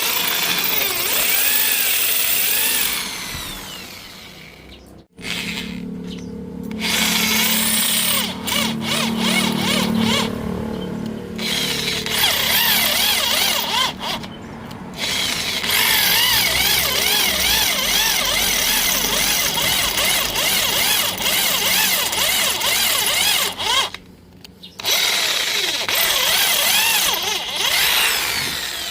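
Electric hand drill running in several long bursts with short pauses, its whine wavering as it bites into metal. It is drilling out a rusted, snapped exhaust bolt in a Suzuki Satria FU's cylinder head.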